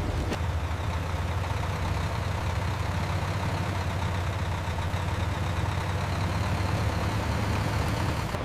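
Heavy vehicle engine running steadily: a constant low drone under an even noisy haze.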